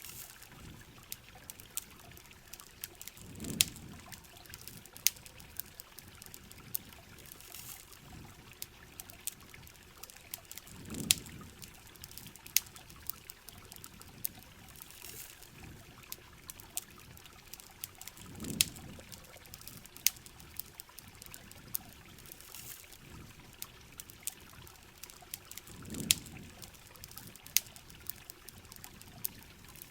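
Steady rain hissing, with the sharp, irregular crackles and pops of a wood campfire. A low whoosh swells up and fades about every seven to eight seconds.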